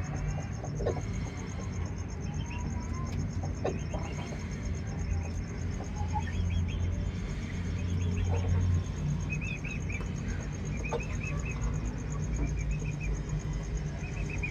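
Aseel chickens clucking, with short high chirping calls, over a steady low hum.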